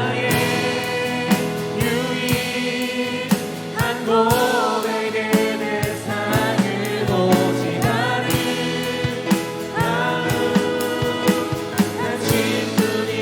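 Christian worship music: a praise song with voices singing over instruments, with a steady beat.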